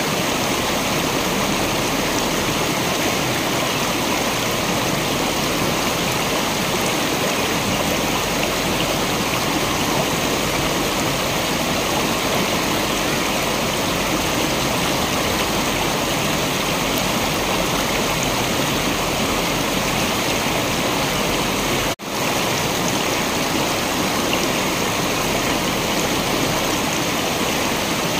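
Waterfall water rushing steadily, an even rush of noise with no pauses. About three-quarters of the way through it drops out for a split second, like a splice in the recording, then carries on.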